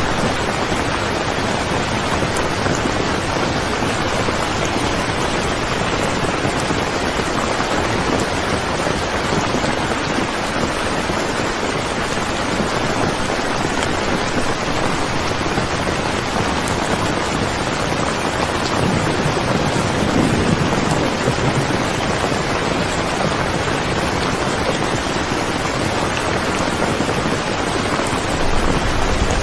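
Steady, dense rainfall hissing without a break. A low rumble of thunder swells about two-thirds of the way through, and another begins near the end.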